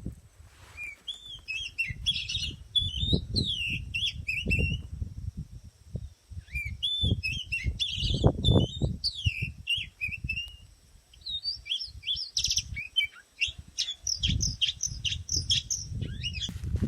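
Oriental magpie-robin (kacer) singing in three bouts of varied, quickly changing whistled phrases, with short pauses between them. Irregular low thuds sound underneath.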